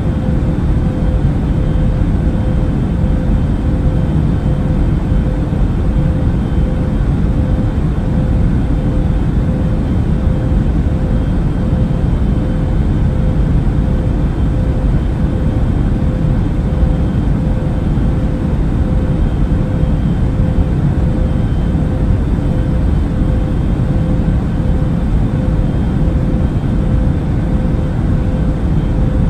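Airplane travel noise: a steady, even low rumble with a faint constant hum on top, unchanging throughout.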